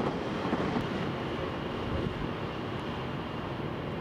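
Steady rumble of a CRH6F intercity electric multiple-unit train running along an elevated viaduct, easing a little after about two seconds.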